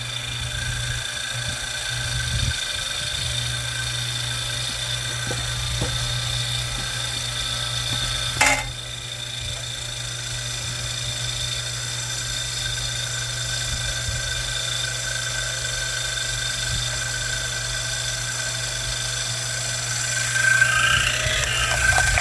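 Hydraulic log splitter running with a steady motor hum and pump whine as it forces a log apart, with one sharp crack about eight seconds in and a burst of crackling near the end.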